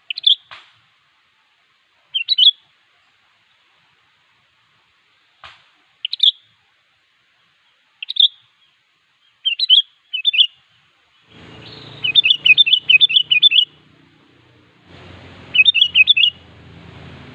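Sooty-headed bulbul (kutilang) calling in short, bright chirped phrases every second or two. From about twelve seconds in come two faster runs of rapidly repeated notes. A steady background noise with a low hum comes in suddenly about eleven seconds in.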